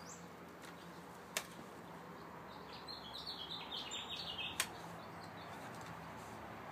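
A small bird singing a quick run of short, high notes for about two seconds in the middle, over a faint steady outdoor background with a low hum. Two sharp clicks, about three seconds apart, are the loudest sounds.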